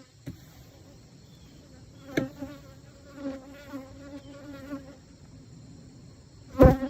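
Honeybees buzzing around an open hive: a wavering hum, with two louder short buzzes, one about two seconds in and the loudest near the end.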